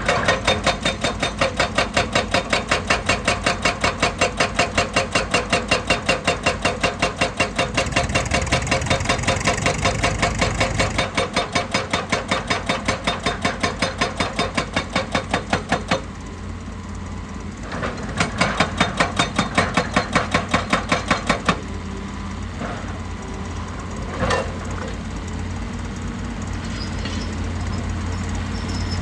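Percussive rock hammer on heavy machinery striking rock in a fast, even series of blows, about six a second, over the diesel engine. The hammering stops about 16 seconds in, starts again briefly around 18 seconds, then only the engine runs on with a few isolated knocks.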